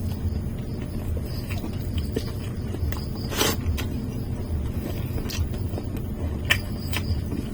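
Close-up eating sounds: scattered short, sharp mouth clicks and smacks from chewing fried chicken and chopsuey, with one longer crunchy-sounding burst about halfway through, over a steady low rumble.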